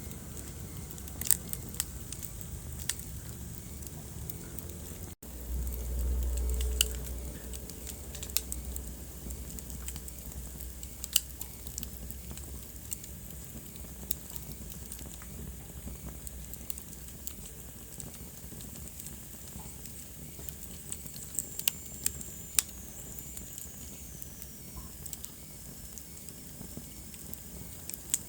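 Wood fire burning in a fireplace: a steady hiss with scattered sharp crackles and pops. About five seconds in the sound cuts out for an instant and a low rumble follows for a couple of seconds; later a faint high whistle falls slowly in pitch, like gas escaping from a burning log.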